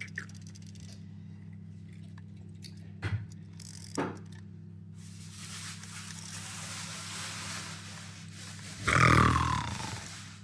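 A few sharp clicks of toys being handled, a steady hiss, then a loud roar with a falling pitch about nine seconds in, lion-like.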